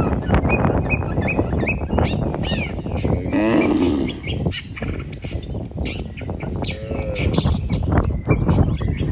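Many small birds chirping and calling over a steady low rushing noise, with a cow giving a short low moo about three and a half seconds in.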